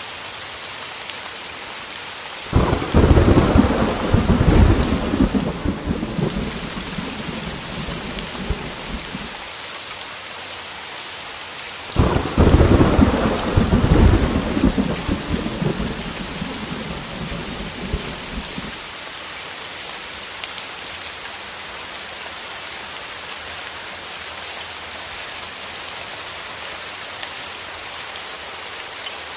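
Steady heavy rain, hissing without a break, with two rolls of thunder: the first breaks in about two and a half seconds in, the second about ten seconds later, each starting suddenly, then rumbling and fading over several seconds.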